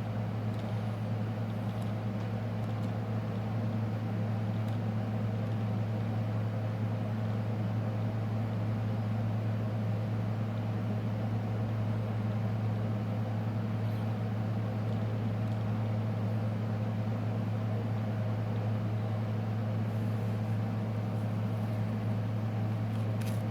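Steady low electrical hum of an ultrasonic cleaner running, one even tone with a few higher overtones, unchanging throughout.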